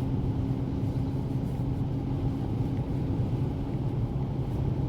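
Steady road and engine rumble inside a moving car's cabin, with a low engine hum that fades out about halfway through.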